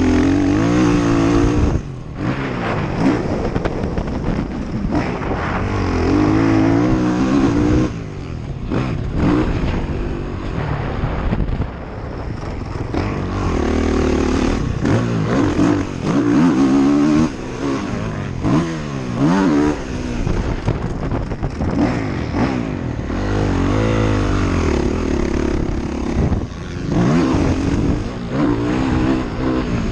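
ATV engine being ridden hard, revving up and easing off again and again, its pitch climbing and falling with short throttle-offs every few seconds. Wind buffets the mounted camera's microphone.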